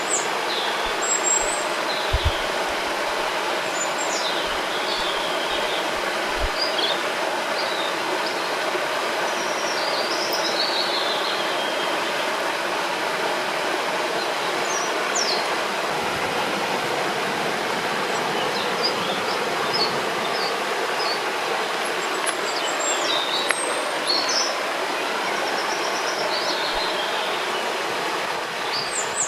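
River water rushing steadily, with songbirds chirping in short, high calls scattered throughout.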